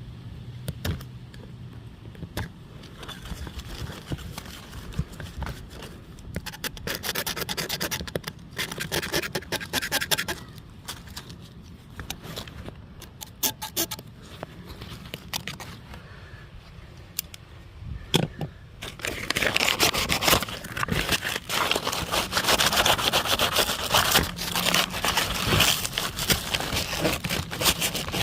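Rough, rapid scraping strokes against an irrigation pipe, working a stubborn lip of old material off so the pipe can be patched and glued. The scraping gets louder and more continuous about two-thirds of the way through.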